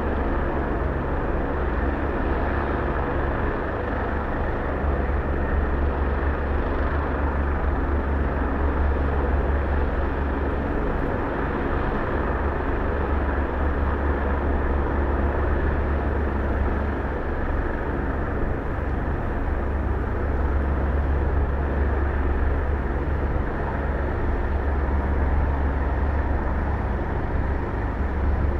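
Helicopter running steadily at close range: a constant deep hum from the rotor with turbine engine noise above it, unchanging throughout.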